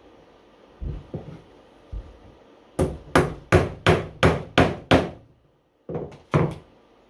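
Hammer driving nails into wooden beehive box parts: a few light taps, then seven quick sharp blows at about three a second, a short pause, and two more blows near the end.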